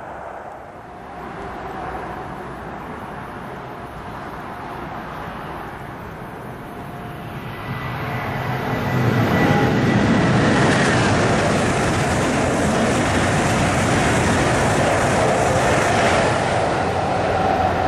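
After a few seconds of quieter steady background noise, a German ICE high-speed train approaches and passes at speed. It becomes a loud, steady rush of wheels and air from about nine seconds in, with a brief thin high whine as it nears.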